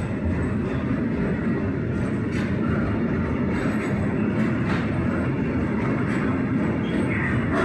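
Freight train of limestone hopper wagons rolling past, a steady rumble of wheels on the rails with a few faint clicks.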